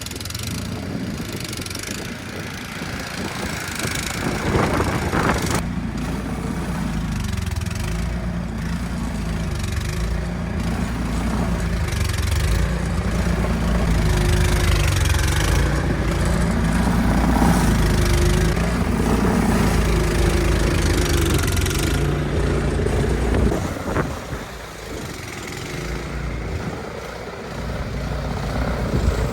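An engine running, its pitch rising and falling as if working under changing load, louder from about six seconds in and dropping away near the end; a steady rushing noise is there before it starts.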